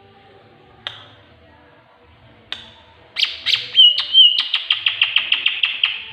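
Tengkek buto kingfisher calls: single sharp notes about a second and a half apart, then a burst of notes with a short warbled whistle about four seconds in. This runs into a fast rattling series of about a dozen notes, roughly eight a second, that stops near the end.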